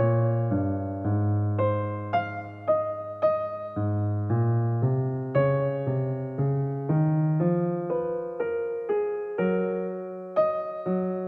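Background music: soft solo piano playing a slow melody over held bass notes.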